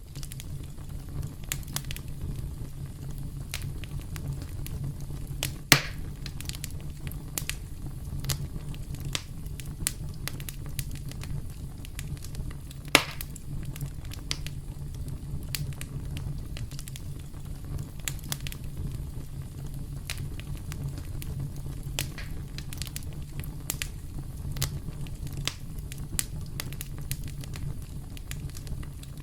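Campfire crackling steadily with many small pops over a low steady rumble, and two louder snaps, about six seconds in and again around thirteen seconds.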